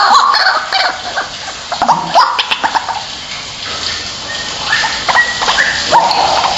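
White-breasted waterhen calling: loud, repeated harsh call notes, with a quick run of short sharp notes a couple of seconds in and a few higher, steadier notes near the end.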